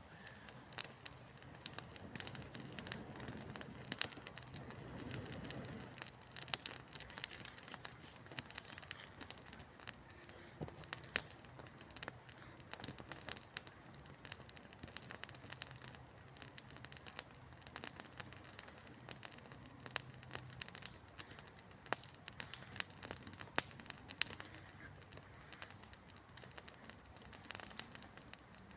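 Small campfire of wet spruce twigs crackling as it catches, with many sharp, irregular pops throughout.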